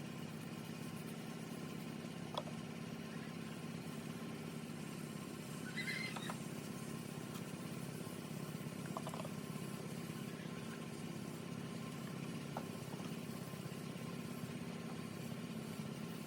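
A steady low motor hum, with a few faint clicks and a brief high chirp about six seconds in.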